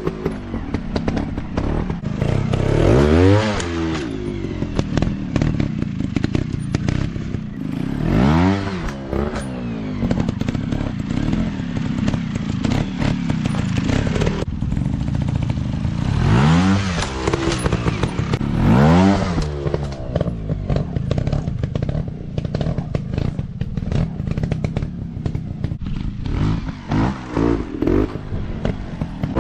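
Dirt bike engines running rough and rattly, blipped into four loud revs that rise and fall in pitch, about three, eight, sixteen and nineteen seconds in.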